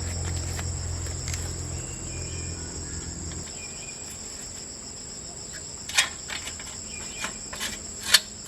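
Steady high-pitched insect chirring, with a low hum that fades out about a third of the way in. A few sharp clicks or knocks cut through, the loudest about six seconds in and just after eight seconds.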